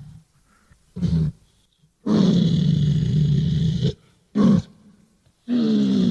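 Recreated Therizinosaurus call sound effect: four low-pitched calls, a short one, a long one of about two seconds, another short one, and a final long call near the end that falls in pitch.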